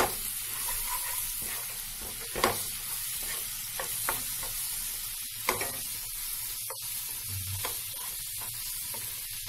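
Chopped onions, green chillies and ginger-garlic paste sizzling in hot oil in a non-stick kadai, being stirred and fried. A spatula scrapes and knocks against the pan several times.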